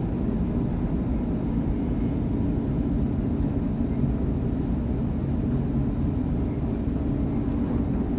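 Sydney Trains electric suburban train running at speed, heard from inside the carriage: a steady low rumble.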